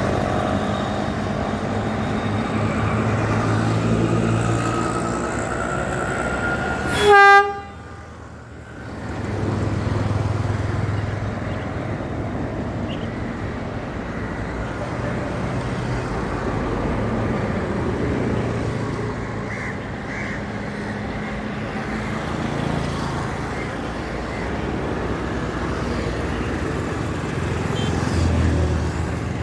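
Sri Lanka Railways Class S10 diesel multiple unit running, its engine rumbling with a rising whine in the first few seconds. About seven seconds in it gives one short, loud horn blast, then it runs on steadily.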